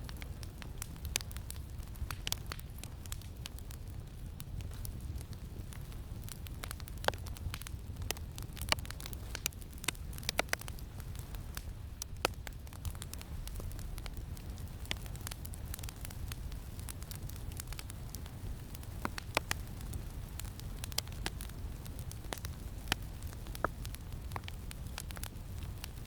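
Campfire crackling: irregular sharp pops and snaps over a steady low rumble of wind.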